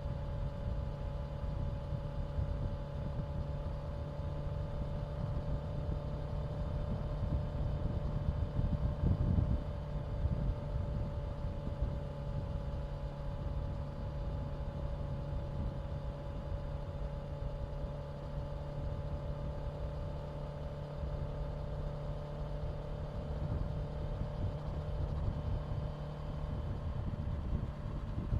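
Honda CBR650F's inline-four engine running at a steady, almost unchanging speed while the motorcycle cruises.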